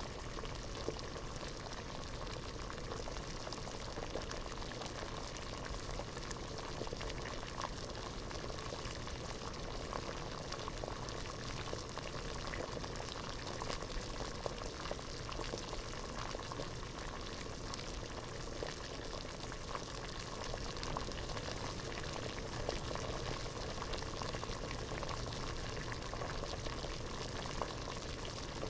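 Water at a rolling boil in a pot, bubbling steadily with a dense crackle of small pops and no pauses.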